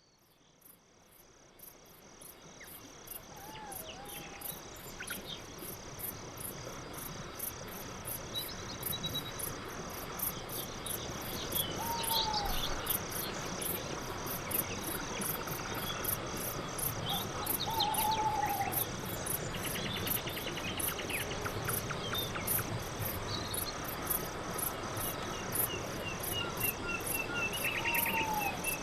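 Night forest ambience: crickets chirping in a fast, even pulse, fading in over the first few seconds. A few short gliding calls from another animal sound every several seconds.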